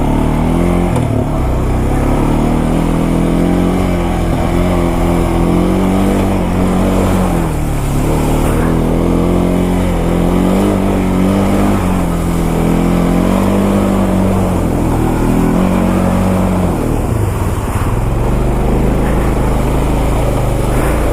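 Honda Foreman ATV's single-cylinder four-stroke engine revving up and down as it is ridden, its pitch rising and falling again and again. About seventeen seconds in the revving eases off to a lower, steadier rumble.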